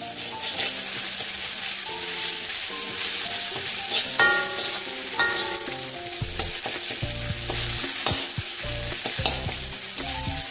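Chopped onions and ground cumin, coriander and chilli paste sizzling as they fry in mustard oil in a kadai, with a steel spoon stirring and scraping against the pan in short ticks.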